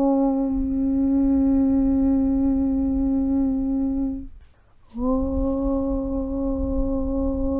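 A voice chanting a long, steady 'Aum' on one low pitch. About four seconds in it breaks off for half a second and then starts again on the same note.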